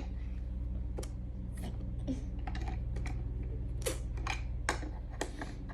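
Irregular light clicks and taps, roughly two a second, over a steady low hum.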